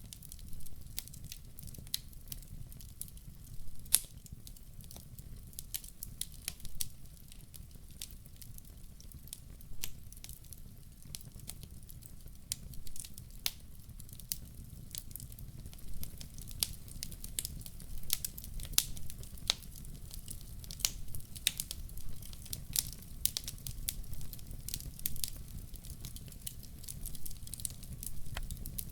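Wood fire crackling: irregular sharp pops and snaps, dense and quick, over a low steady rumble. The single loudest pop comes about four seconds in.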